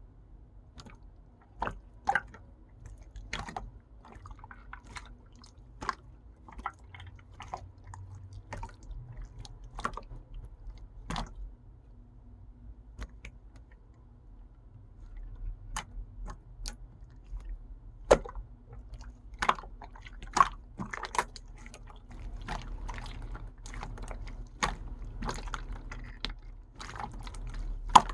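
Hands kneading and stretching a mixed slime, giving irregular sticky clicks and small pops, sparse at first and more frequent in the second half.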